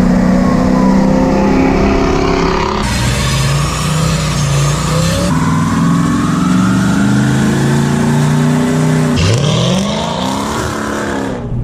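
Dodge Challenger R/T's 5.7-litre HEMI V8 through a Mopar cat-back exhaust, heard in a few short cut-together clips. The engine runs and revs, with one rev rising and falling about nine seconds in.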